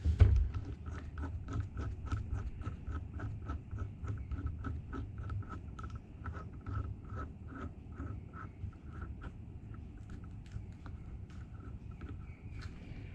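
A sharp metallic knock, then steady metallic clicking of about four clicks a second, each click with a short ring. The clicking thins out and stops near the end.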